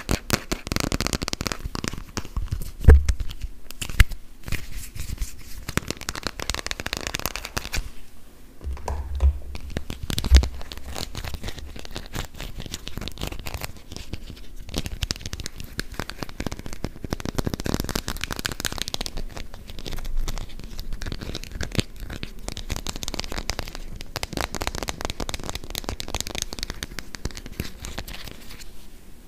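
Fingernails rapidly tapping and scratching on plastic play-food items, a continuous crackly, crinkly clicking with a few louder knocks around 3, 4, 9 and 10 seconds in.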